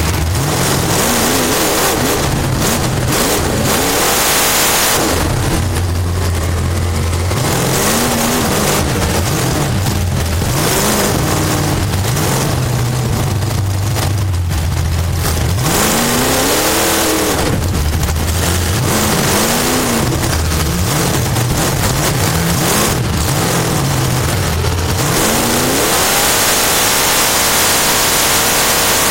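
Race car engine heard from inside the car at full race level, its pitch rising under throttle and falling off again every few seconds as the car drives laps. A constant rush of wind and track noise lies under it.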